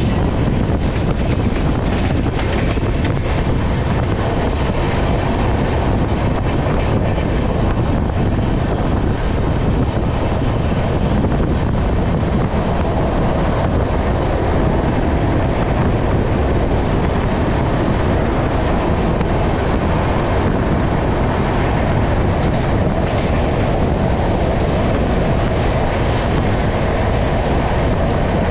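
Passenger train coaches running along the track, giving a steady loud rumble of wheels on rail together with the rush of the air stream. Wind buffets the microphone, which is held outside the moving coach.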